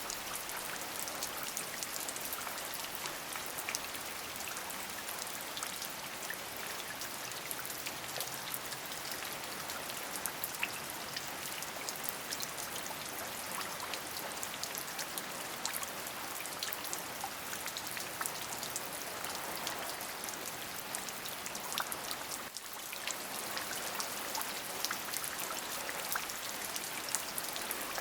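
Steady rain, a constant hiss with many individual drops ticking sharply on a surface. It dips briefly about two-thirds of the way through.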